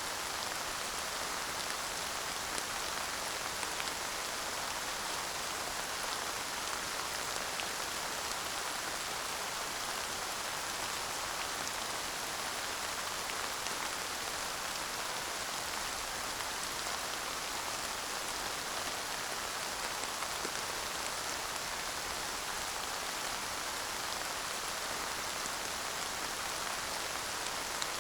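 Steady light rain falling, an even hiss with scattered small drop ticks and no thunder.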